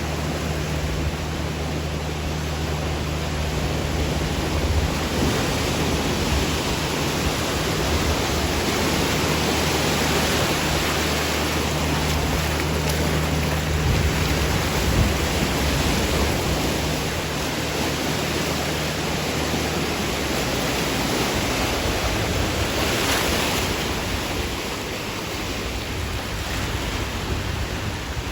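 Steady rushing noise of the bono tidal bore's water surging along the river, with a low steady hum underneath that fades out about two-thirds of the way through.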